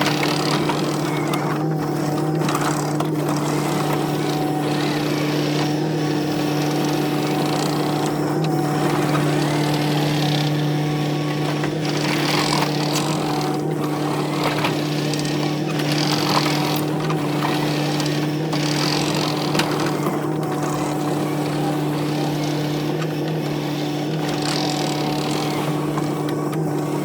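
Construction machine engine running steadily at constant speed, with scattered knocks and clanks throughout.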